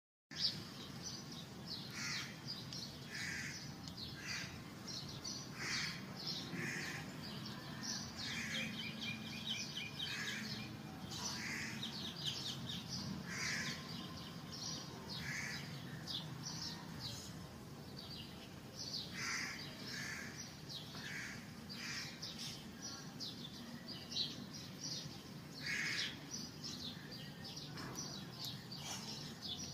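Birds calling: short harsh calls repeated every second or so, among a busy chatter of high chirps, easing off for a few seconds about halfway through.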